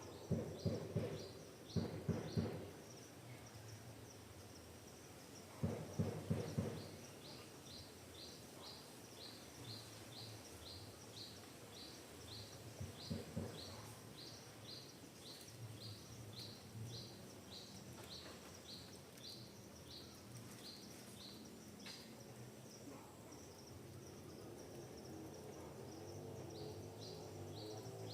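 Forest ambience of birdsong: a short high chirp repeated more than once a second, with a few louder brief bursts of rapid lower-pitched pulses near the start, about six seconds in and about thirteen seconds in.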